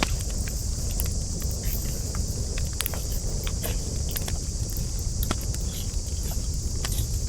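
Wood campfire crackling: irregular sharp pops and snaps over a steady low rumble of burning and a steady hiss.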